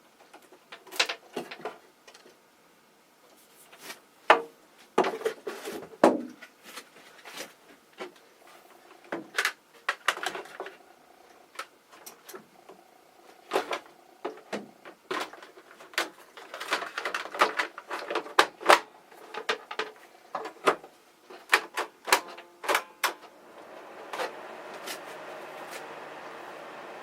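A run of irregular clicks, knocks and rattles from plastic and metal being handled, then near the end a small ventilation fan starts and runs with a steady whir and low hum.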